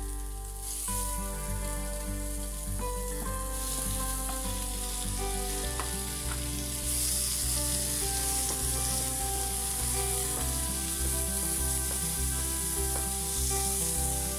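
String beans and pork sizzling in hot oil in a wok, stirred with a wooden spatula; the sizzle grows louder about three and a half seconds in and again about seven seconds in. Background music with a steady bass plays under it.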